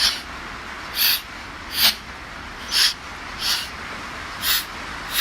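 Rebuilt Mazda 13B rotary engine being turned over slowly by hand, letting out a short hiss of air at each compression pulse, about one puff a second.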